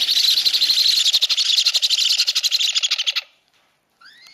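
Hand-fed baby parrot giving its rapid, raspy food-begging call, pulsing about a dozen times a second, which stops abruptly a little over three seconds in. A faint, short rising-and-falling chirp follows near the end.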